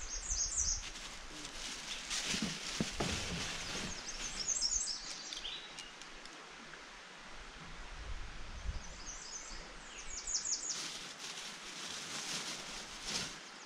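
Wild birds chirping in a few short spells of quick high notes over steady outdoor background noise, with occasional rustling.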